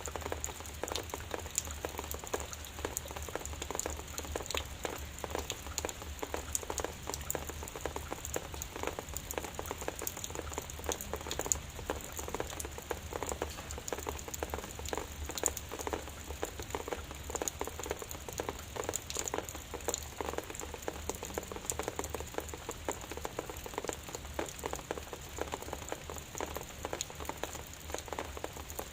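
Drizzle falling steadily: a dense, even patter of small raindrops.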